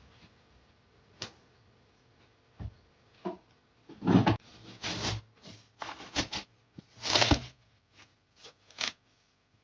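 Objects being handled in a small room: a series of short rustles and light knocks, the loudest coming in the middle of the stretch.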